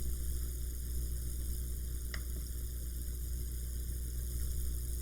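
Steady low electrical hum with a faint hiss, and one faint click about two seconds in.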